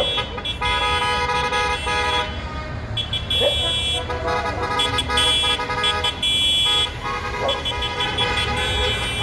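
Tractor horns honking in repeated blasts of uneven length, one after another, over the steady low running of tractor engines.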